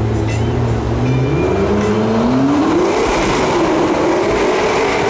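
McLaren 650S Spider's twin-turbo V8 accelerating hard, heard from inside the car. The engine note climbs for about a second and a half, dips briefly around the middle at a gear change, then holds high.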